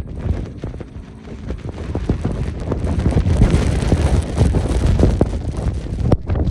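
Gusty wind buffeting the microphone in a snowstorm, with many short knocks and crunches mixed in, growing louder from about two seconds in.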